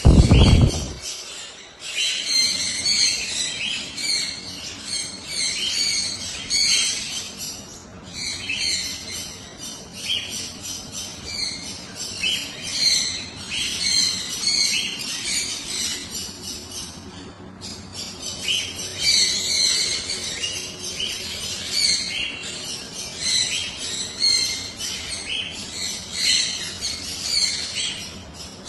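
Many caged pet birds chirping and squawking together in a constant, busy chatter. A loud, low bump sounds at the very start.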